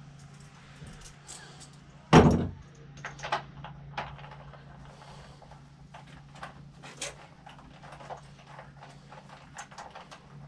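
Hand-tool work on a motorcycle: one loud thump about two seconds in, a few lighter knocks soon after, then scattered light clinks and clicks of tools and parts, over a steady low hum.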